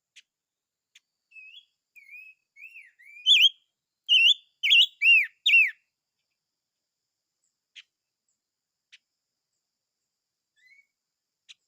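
A songbird known in Vietnamese as chim ngũ sắc sings a phrase of whistled, up-and-down slurred notes. The phrase starts softly about a second in and grows loud over its last few notes, then breaks off, leaving only a few faint single chips.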